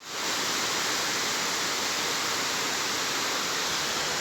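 Heavy downpour: rain falling hard as a dense, steady hiss.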